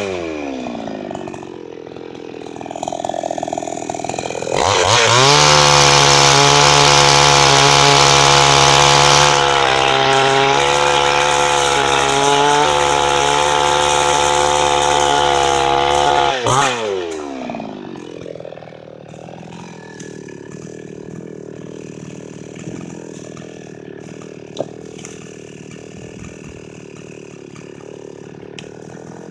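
Chinese-made gas chainsaw dropping to idle, then throttled up about four seconds in and held at full speed while cutting wood for about twelve seconds before falling back. It then runs on much more quietly, with one sharp knock near the end.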